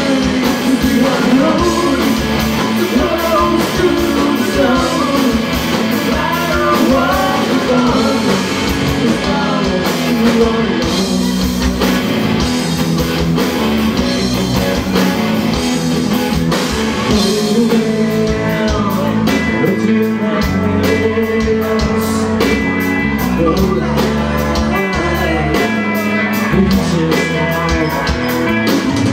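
Rock band playing live, with vocals, electric guitar and drums.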